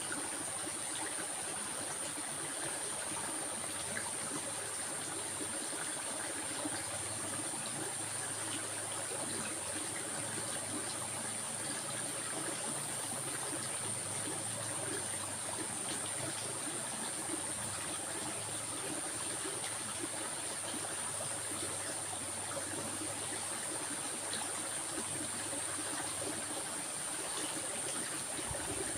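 A stream of water flowing and trickling steadily, with a steady high-pitched hiss above it.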